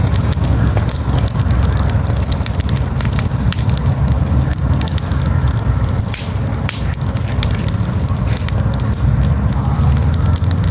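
Wood campfire crackling, with sharp pops and snaps scattered irregularly over a steady low rumble.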